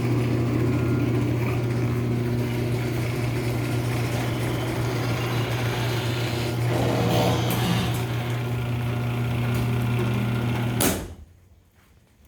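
Chamberlain garage door opener motor running steadily as it drives the door, then a sharp knock about eleven seconds in as it smacks into the stop and the motor cuts off. It is over-travelling: it goes way too far.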